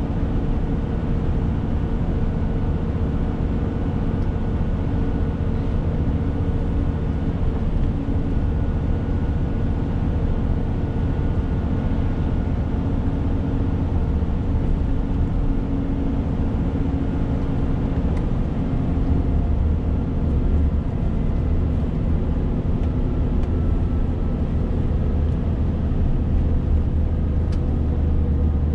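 Renault T520 truck's diesel engine running steadily under way, with a low drone and road noise.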